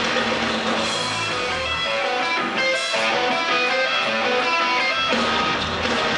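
Loud live noise-rock band playing, led by electric guitar. About two seconds in, the bottom end drops away for roughly three seconds, leaving higher guitar notes, before the full band with bass and drums comes back in.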